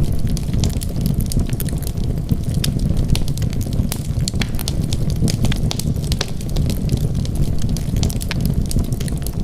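Wood fire burning with a steady low rumble and many small, irregular crackles and pops of burning wood.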